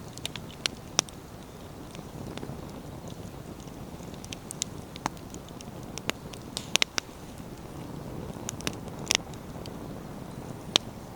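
Wood fire burning with a steady low rumble of flames and irregular sharp crackles and pops as the firewood bursts, a few pops in quick clusters.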